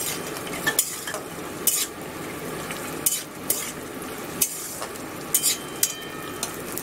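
Peanuts frying in hot oil and ghee in a metal kadai, a steady sizzle, while a flat metal spatula stirs them, scraping and knocking against the pan at irregular moments.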